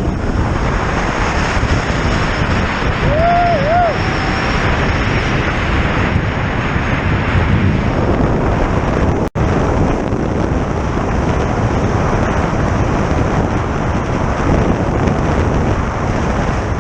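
Heavy wind buffeting the microphone on a fast-moving motorcycle, a steady loud rush. A short wavering tone sounds about three seconds in, and the sound drops out for an instant about nine seconds in.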